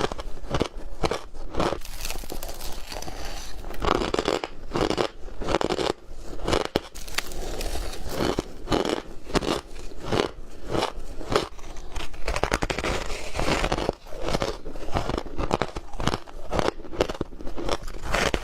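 Ice being bitten and chewed close to the microphone: a steady run of irregular, closely spaced crunches.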